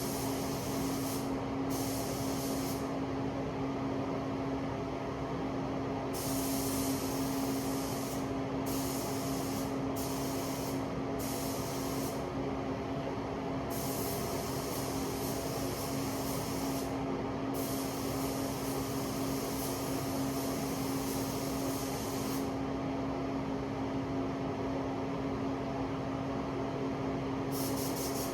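Paint spray gun hissing in repeated bursts of one to several seconds as the trigger is pulled and released, over a steady mechanical hum.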